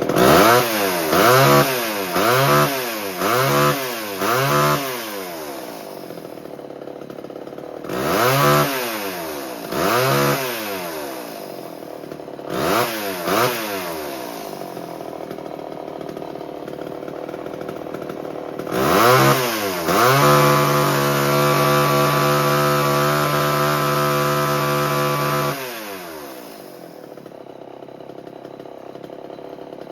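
1978 Homelite XL12 chainsaw's two-stroke engine idling and being revved. It opens with a quick string of about five throttle blips, then a few more spaced-out revs. Later it is held at a steady high speed for about five seconds before dropping back to idle.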